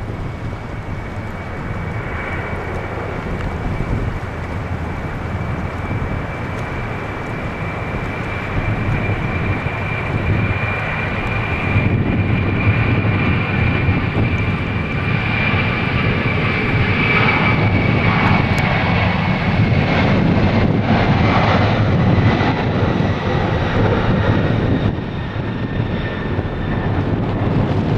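Jet airliner's engines running at high power, a steady rushing noise with a high fan whine that slowly falls in pitch. It grows louder about halfway through.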